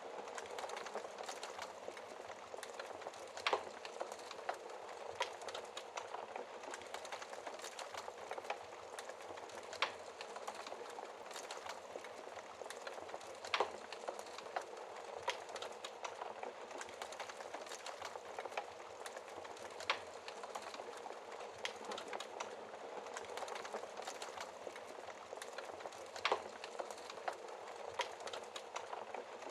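Wood fire in a fireplace burning steadily: a constant soft hiss of flames with irregular crackling and sharp pops of burning logs, the loudest pops a few seconds apart.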